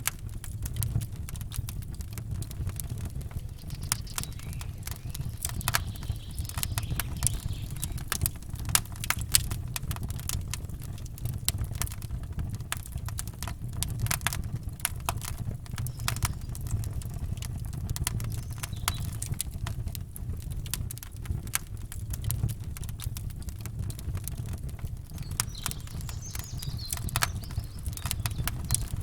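Campfire crackling, with frequent irregular sharp pops and snaps over a low steady rumble. Faint birdsong chirps come in a few seconds in and again near the end.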